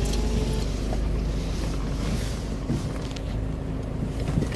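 Boat engine running steadily, with wind and water noise over the microphone.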